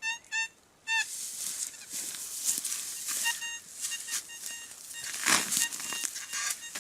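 Metal detector beeping in three short tones in the first second as it sounds off on a buried target, followed by repeated crunching and scraping of soil and leaf litter, with a fainter steady detector tone returning from about three seconds in.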